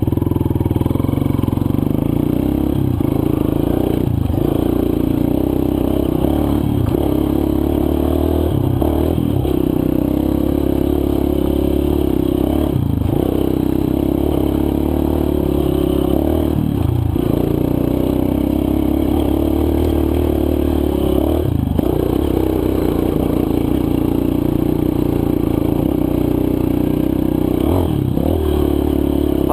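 Four-stroke single-cylinder dirt bike engine running under steady throttle on a trail ride, the note briefly dropping every few seconds as the throttle is eased off and picked back up.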